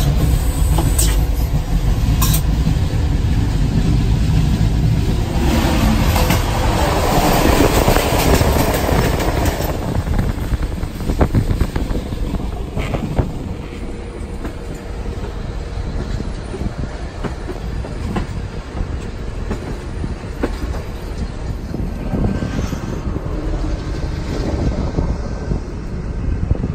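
CFR sleeper train running on the line, heard at an open window: a steady rumble of wheels on rails with clickety-clack over rail joints and some wheel squeal.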